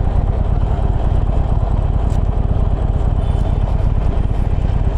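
Harley-Davidson Forty-Eight's V-twin engine running steadily under way, with a dense, even low rumble. The exhaust is still the stock one.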